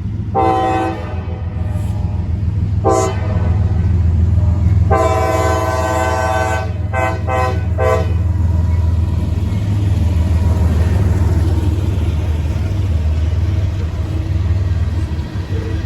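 Diesel freight locomotive horn sounding three times: a short blast, a brief toot, then a long blast of about three seconds that breaks up near its end. Under it runs the steady low rumble of the locomotive's diesel engine and the train rolling in.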